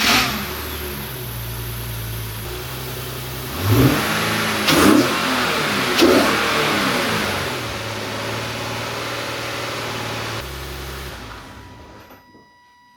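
Nissan 370Z's 3.7-litre V6 running just after starting, with a newly fitted 3D-printed cold air intake. It idles steadily, is blipped three times in quick succession, settles back to idle, and fades away near the end.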